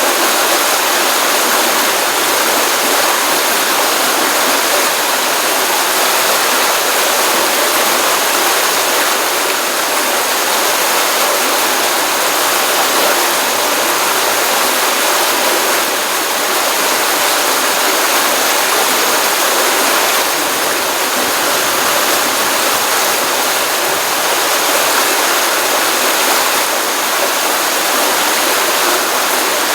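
Stream water running steadily from a pond, a continuous even rush of flowing water.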